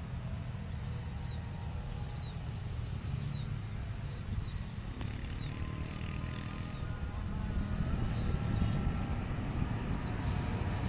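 Helicopter flying, heard as a steady low rumble that grows a little louder about eight seconds in.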